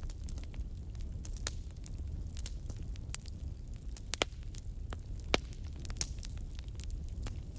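Wood fire in a fireplace crackling, with irregular sharp pops over a steady low rumble of burning; two louder pops come a little past the middle.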